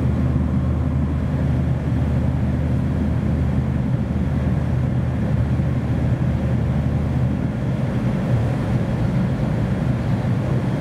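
Cabin running noise of an N700 series shinkansen: a steady rumble with a low hum of several tones, the hum dropping away about three-quarters through as the train nears its terminal stop.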